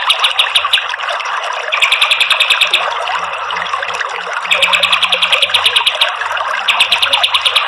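Kapas tembak bird singing its rapid-fire song: fast trills of about a dozen high notes a second, in bursts of a second or so with short pauses. Under the song runs a steady hiss like flowing water.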